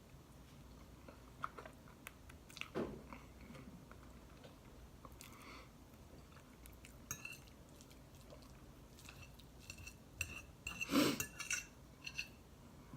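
Cutlery clinking and scraping on a plate during a meal, with quiet chewing in between; a quick cluster of clinks near the end is the loudest part.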